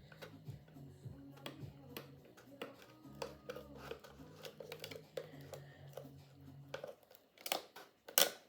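Retractable utility knife piercing and cutting a hole in a thin plastic water bottle: scattered small clicks and crinkles of the plastic, with a couple of sharper clicks near the end.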